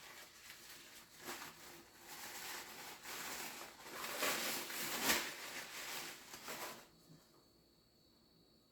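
Close-miked wet chewing and mouth sounds of eating, a dense run of small squishy clicks that grows loudest midway and stops about seven seconds in.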